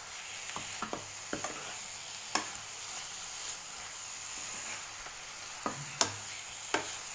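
Turnip pieces and spice masala sizzling as they roast in a non-stick frying pan, stirred with a steel ladle that scrapes and knocks against the pan now and then. The loudest knocks come about two and a half and six seconds in.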